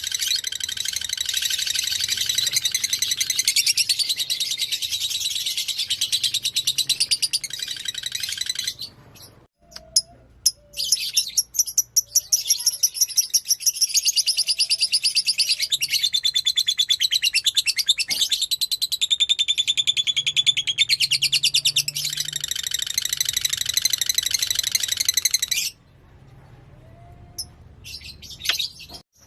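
Lovebird singing a long, very fast, high-pitched chattering trill. It breaks off briefly about nine seconds in, resumes, and stops about 26 seconds in, followed by a few short bursts near the end.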